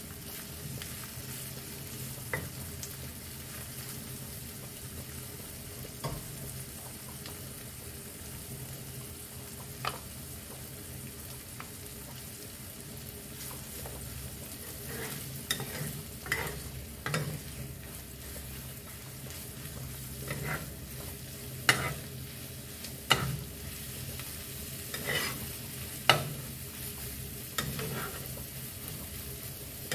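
Eggs, shrimp and kimchi frying in a nonstick pan with a steady sizzle. A spatula scrapes and knocks against the pan as the eggs are stirred and scrambled, now and then at first, then more often from about halfway.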